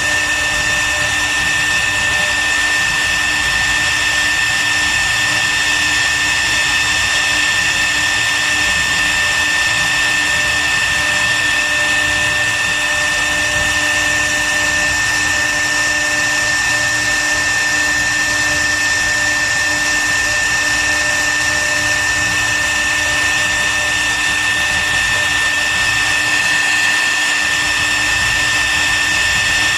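CNC wood router's spindle running steadily, a constant high-pitched whine over a noisy hiss.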